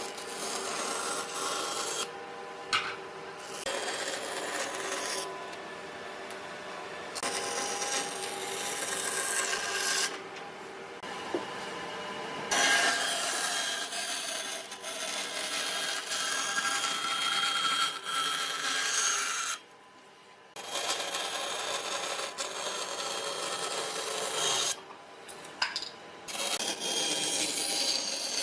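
Continuous rubbing and rasping, as of hand work on a surface, in several stretches that change abruptly, with a short drop in level about two-thirds of the way through.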